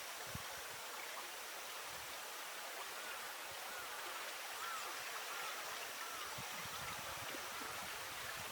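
Steady rushing hiss of flowing river water. Faint short chirping notes sound a few times around the middle.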